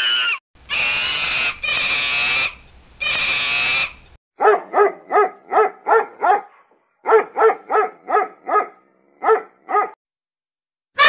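A puppy yipping in quick runs of short, high barks, about three a second, with short pauses between runs. Before the yips, in the first few seconds, come three long drawn-out calls of about a second each.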